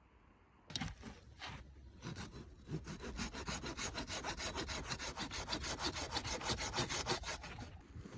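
Hand saw cutting through wood: a few slow strokes to start the cut, then quick, even back-and-forth strokes about four a second, stopping shortly before the end.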